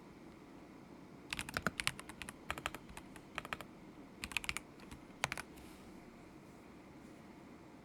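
Typing on a stock KZZI K75 Pro mechanical keyboard with Moment linear switches: short bursts of quick keystrokes that stop about five and a half seconds in.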